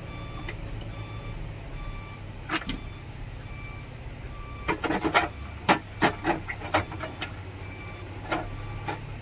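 Steady low drone of an idling vehicle engine, with a run of sharp knocks and clatters from about five to seven seconds in.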